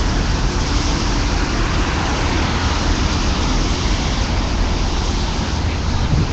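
Steady low rumble of vehicle engines under an even hiss of street noise, with no distinct events.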